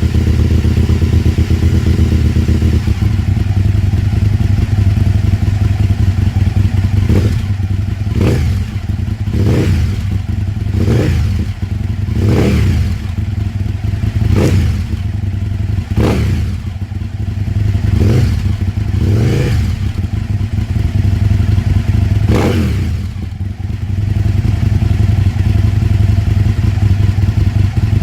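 Aprilia Tuono 1000's 60-degree V-twin idling, then blipped sharply about ten times in a row, each rev rising and falling quickly, before settling back to idle.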